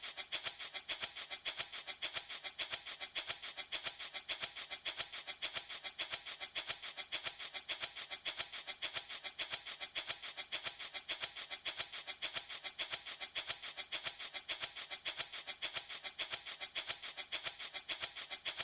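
Handmade wooden baby rattle shaken in a steady, even rhythm, a bright, dry rattle repeating without a break.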